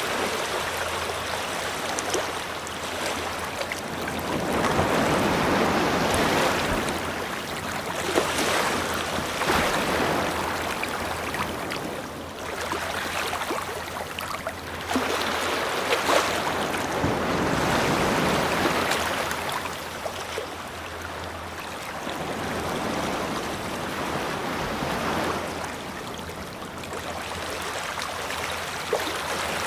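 Ocean waves breaking on a beach, the surf swelling and falling away in surges every few seconds.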